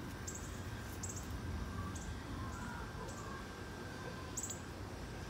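Backyard ambience: short, high bird chirps repeating about once a second, with a few fainter calls, over a low rumble on the microphone.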